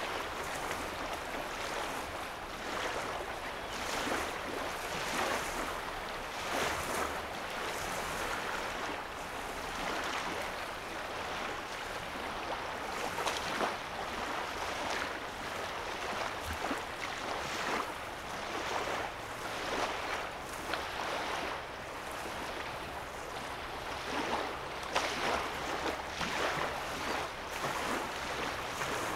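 Small waves lapping and splashing on a lake's sandy shoreline, in gentle swells every second or two, over a faint low hum.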